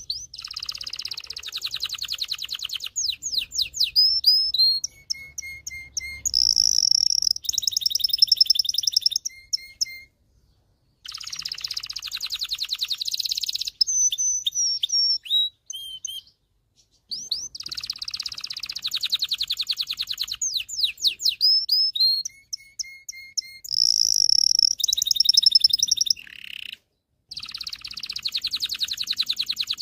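Domestic canary singing: a run of song phrases made of fast rolling trills and short whistled notes, broken by brief pauses three times.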